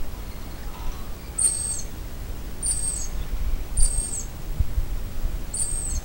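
A bird calling four times with short, very high-pitched notes that drop in pitch at the end, about a second apart.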